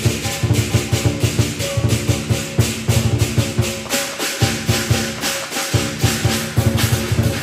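Lion dance percussion band playing: a large drum struck in quick strokes under crashing cymbals and a ringing gong, the drum dropping out briefly twice near the middle.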